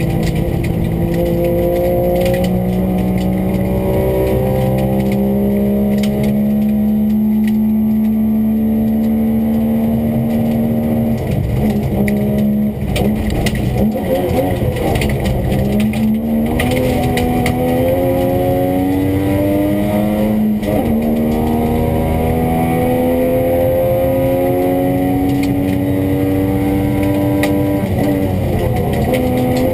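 Classic rally car's engine heard from inside the cabin at stage pace, pulling hard and rising slowly in revs for long stretches. Its pitch breaks and drops briefly a few times near the middle, as the driver lifts or changes gear, before it climbs again.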